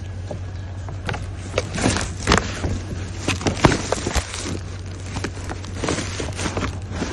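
Items being rummaged through in a dumpster. From about a second in there is irregular rustling, crinkling and knocking as things are moved, over a steady low hum.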